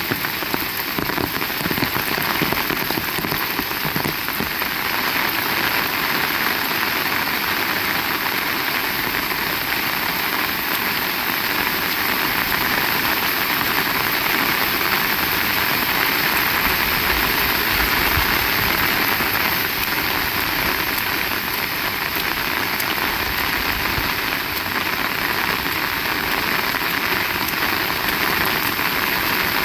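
Heavy rain pouring steadily, an even hiss with no break, with a low rumble swelling about halfway through.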